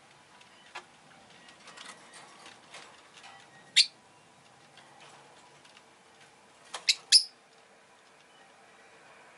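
Rosy-faced lovebird giving short, shrill calls: one about four seconds in, then two in quick succession near seven seconds, with faint ticks and scratches in between.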